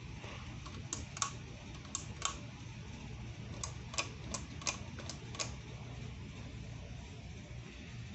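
A 30-inch Better Homes & Gardens ceiling fan running with a low steady hum. Over it comes a run of about ten sharp clicks, mostly in pairs, from about a second in to past the halfway point.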